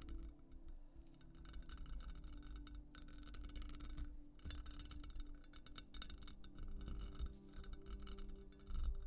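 Scratching on textured glass: stretches of rapid, rough strokes with a few brief pauses between them, over a soft, steady musical drone.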